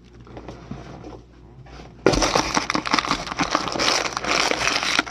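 Styrofoam packing peanuts being dug through and rustled in a cardboard box: soft handling noise at first, then a loud, dense rustle from about two seconds in.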